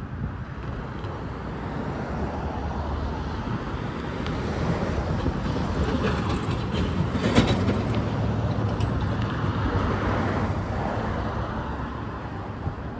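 Mixed freight train rolling past, wheels running on the rails. The noise grows louder toward the middle, with a sharp clank about seven seconds in, then eases off.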